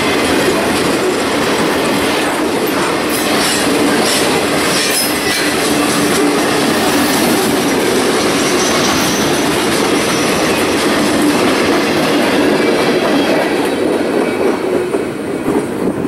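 Freight train cars rolling past, steel wheels running and clicking on the rails; the noise drops a little near the end as the last car goes by.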